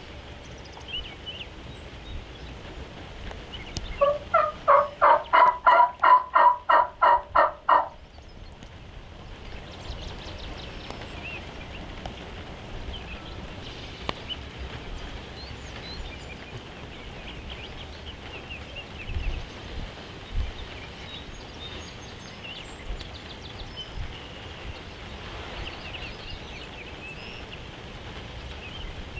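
Turkey yelping: a run of about a dozen loud, evenly spaced yelps, about three a second for some four seconds, over a steady background hiss.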